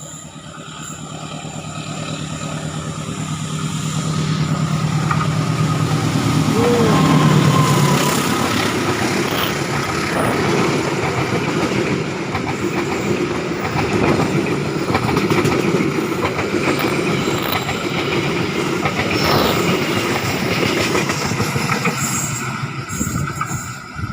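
Diesel locomotive and passenger carriages passing by on the track: the engine's steady drone grows louder over the first several seconds, then the wheels rumble and clatter over the rails, dropping off near the end.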